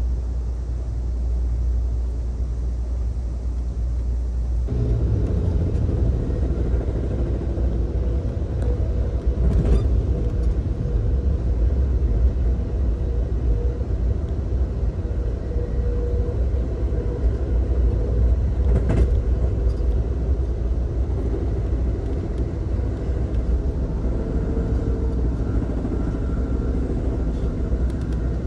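Amtrak Coast Starlight passenger train heard from inside a coach car: a steady low rumble. About five seconds in it fills out with a fuller running hum as the train rolls along, with a couple of single knocks.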